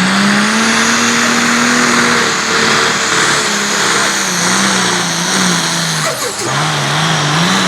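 Pulling tractor's engine running flat out at high revs under load as it pulls the sled. About six seconds in the pitch drops, then surges up and down.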